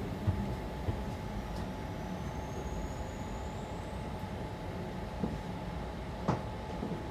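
Electric suburban train heard from inside the carriage, running with a steady low rumble and a constant hum. A faint high whine rises slowly in the first half, and a few short knocks come through, the clearest just after the start and about six seconds in.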